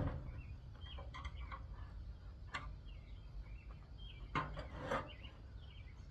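A few sharp clicks and knocks of air conditioner parts being worked apart by hand, three of them spaced out over a couple of seconds in the middle, over a low rumble.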